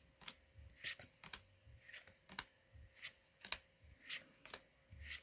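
Trading cards being slid off a stack one after another, short crisp swishes about twice a second.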